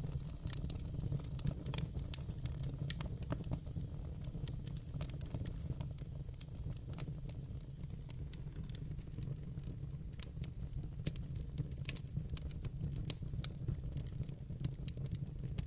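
Wood fire crackling in a fireplace: irregular sharp snaps and crackles over a steady low rumble.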